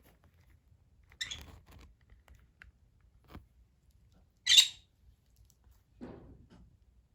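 Scattered short sounds from a pet bird: a brief high chirp about a second in, a light click, and a louder, sharp squawk midway, then a softer, lower sound near the end.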